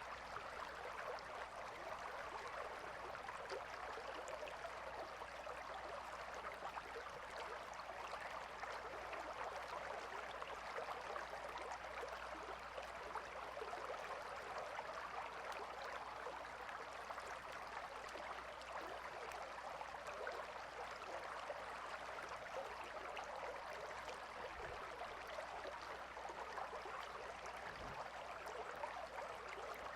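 A river flowing: a steady rush of water at an even level, with no breaks or changes.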